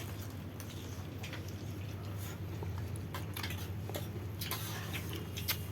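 People eating a meal, with faint scattered clicks, over a steady low hum.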